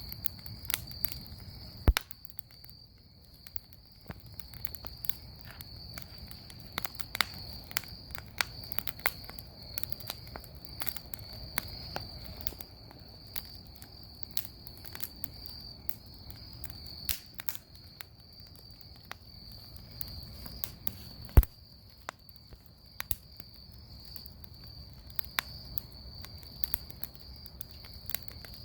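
Bonfire crackling with frequent sharp pops, two much louder snaps about two seconds in and near the twenty-one second mark, over a steady high chirring of crickets.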